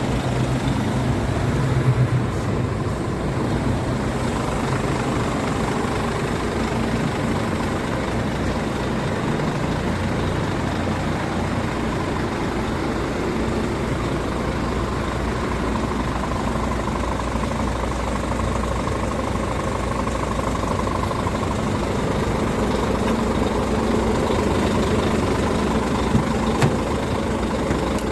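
Scania R440 tractor unit's 13-litre inline-six diesel engine idling steadily.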